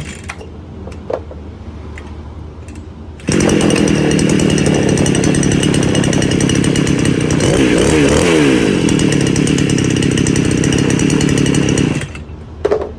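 A small engine ticking over, then held at high revs for about nine seconds with a fast, buzzing firing rhythm. It drops abruptly back to idle, then gives a short blip of throttle near the end.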